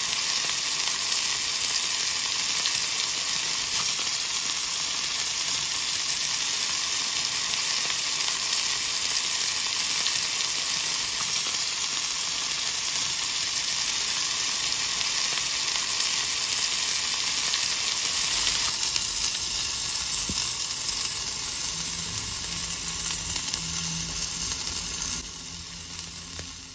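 Chicken skewers sizzling steadily in a hot enamelled cast-iron grill pan, pan-frying. The sizzle eases off and drops noticeably near the end, as fewer skewers are left in the pan.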